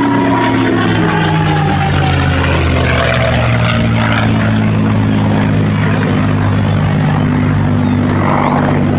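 RAF Chinook helicopter's tandem rotors and engines, loud and close, dropping in pitch over the first few seconds as it passes, then holding steady.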